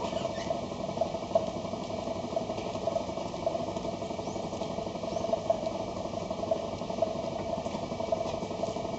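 Goat chewing feed, with faint irregular crunches over a steady background hum.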